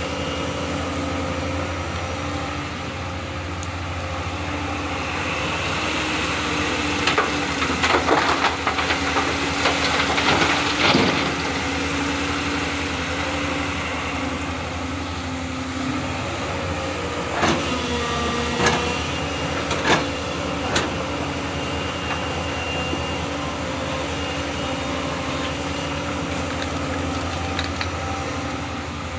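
Excavator's diesel engine running steadily, with spells of rattling knocks from the bucket at work about seven to eleven seconds in and again around seventeen to twenty-one seconds. The engine note dips briefly under load just before the second spell.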